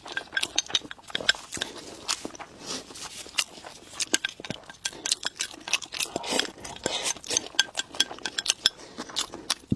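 Close-up eating: chewing and biting with many quick, irregular clicks and light clinks of utensils on dishes.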